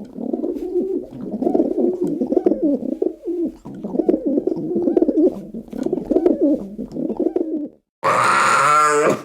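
Pigeons cooing continuously in low, throaty, warbling phrases. Near the end a loud, harsh animal call cuts in.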